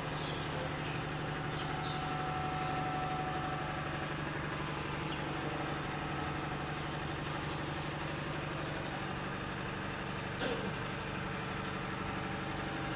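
Hino 500 truck's diesel engine idling steadily, with one brief click about ten and a half seconds in. The owner takes the engine for having a blown cylinder head, using engine oil every day.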